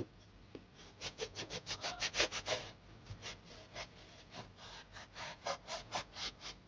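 Rhythmic rubbing strokes: a quick run of about eight a second, then slower strokes, about four a second, from about three seconds in.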